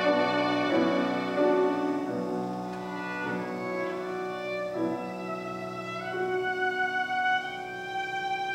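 Bowed string instrument playing a slow melody of long held notes, sliding upward in pitch in the second half.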